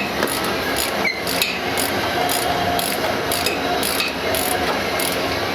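Hand ratchet wrench clicking through repeated back-and-forth strokes, about two strokes a second, as bolts are worked loose on the engine being removed.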